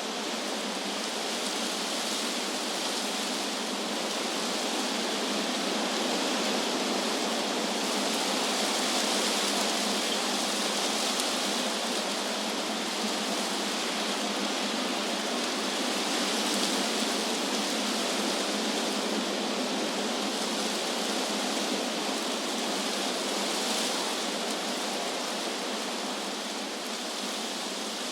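Wind rushing through tree leaves: a steady hiss that slowly swells and eases, fuller in the middle and dipping near the end.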